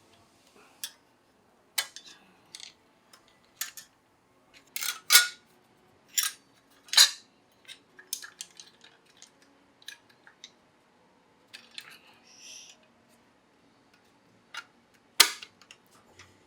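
Metal engine parts and hand tools clicking and clinking irregularly during engine assembly, with a short scrape partway through.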